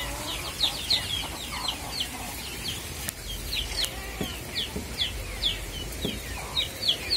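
Birds peeping: a steady run of short, high, falling chirps, two or three a second, overlapping each other.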